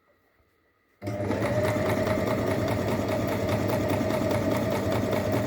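Singer M1605 electric sewing machine starting up about a second in and stitching steadily at speed: a steady motor whine over fast, even needle ticking.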